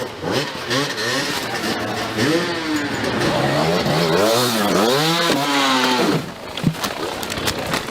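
Dirt bike engine revving up and down over and over, its pitch rising and falling in quick arches, loudest in the middle.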